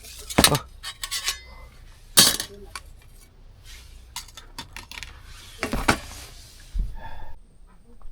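Metal utensils and dishes clinking and knocking against each other in a series of sharp, irregular strikes, the loudest about half a second and two seconds in.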